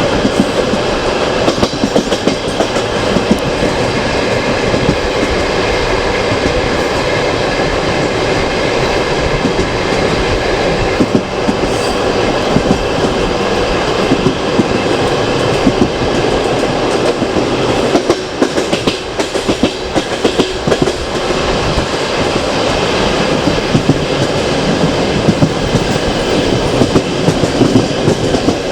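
Passenger train running at speed, heard from a carriage window: the wheels clatter irregularly over the rail joints over a steady rumble and rush of air.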